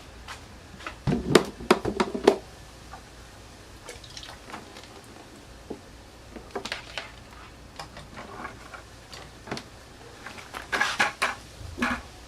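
Hard objects clinking and knocking as they are handled, in three short bursts of clatter.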